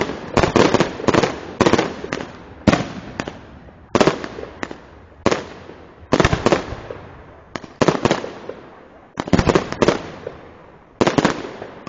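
Fireworks display: aerial shells bursting one after another, each a sharp bang that trails off in a fading echo, roughly one a second, sometimes two or three in quick succession.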